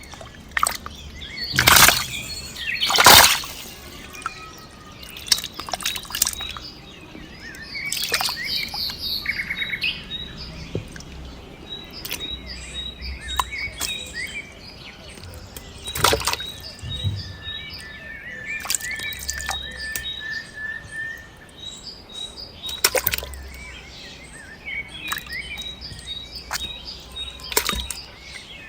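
Small birds chirping and calling in outdoor ambience, with repeated high pips and a held whistle-like note in the second half. Several loud sharp noises cut through, the loudest about two and three seconds in.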